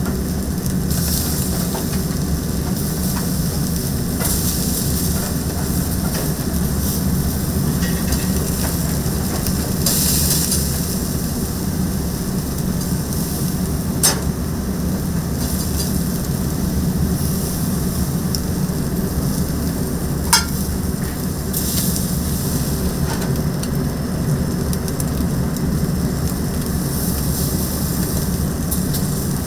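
Chicken skewers sizzling and crackling on a yakitori grill, over a steady low rumble, with a couple of sharp clicks.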